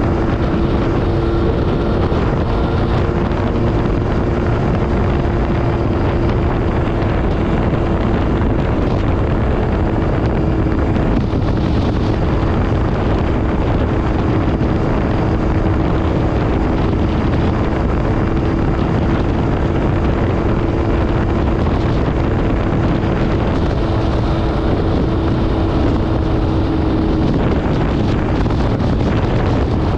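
MV Agusta Brutale 800RR's three-cylinder engine through an SC Project exhaust, running at a fairly steady pitch while the bike is ridden, with heavy wind noise on the microphone.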